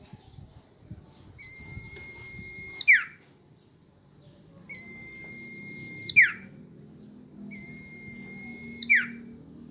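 Common iora (cipoh) singing: three long, steady whistled notes, each held over a second and ending in a quick downward slur.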